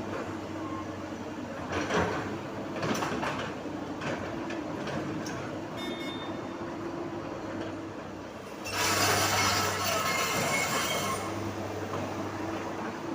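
Komatsu PC200 excavator's diesel engine running steadily. Two sharp knocks come about two and three seconds in, and a louder rushing noise rises for about two and a half seconds near the end.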